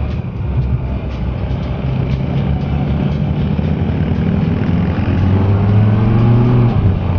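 Can-Am Spyder three-wheeled motorcycle's engine running at low speed in slow traffic. Its pitch climbs gradually and then drops near the end, over a steady hiss of wind and road noise.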